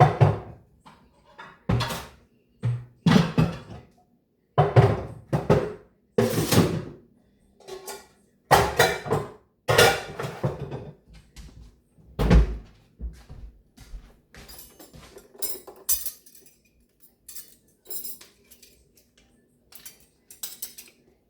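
Dishes and pans clanking and knocking as they are handled, in a string of sharp knocks about a second apart with some lighter rattles between.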